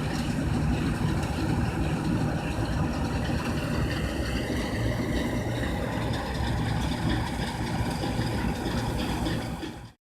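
Bizon Z056 combine harvester's six-cylinder diesel engine running steadily, with a higher whine that rises slightly about halfway through. The sound cuts off abruptly near the end.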